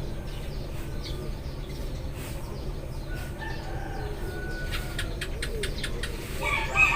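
A flock of Eurasian tree sparrows chirping in short, scattered calls, with a denser, louder burst of chirps near the end. Domestic chickens cluck underneath over a steady low hum.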